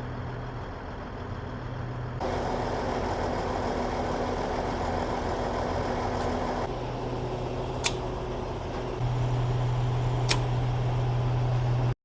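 Diesel truck engines running steadily, a low drone over even engine noise that shifts abruptly in level a couple of times, with two sharp clicks partway through.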